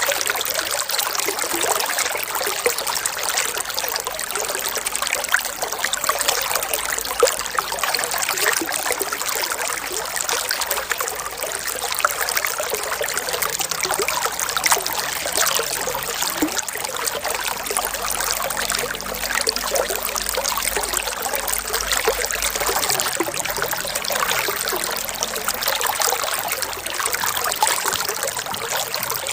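Running water trickling and splashing steadily: a continuous hiss full of small splashes, with no pauses or changes.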